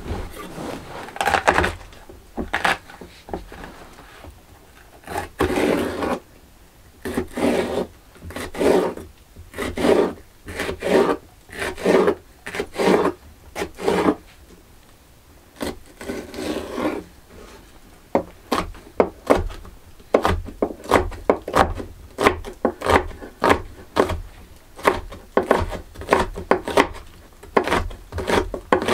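Repeated rubbing strokes against wood. At first they are slow, about one a second; from about two-thirds of the way in they turn quicker and sharper, about two to three a second.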